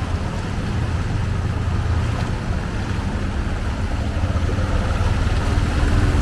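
Strong floodwater rushing along a flooded street, a steady churning wash with a heavy low rumble that grows a little louder in the second half.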